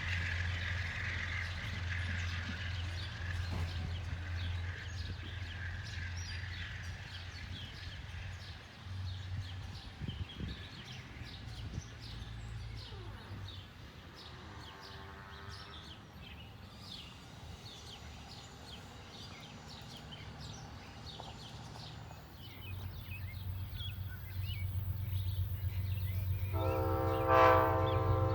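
Low steady rumble of an approaching train, with a faint horn chord heard briefly midway. Near the end the Amtrak train's multi-note horn blows loudly.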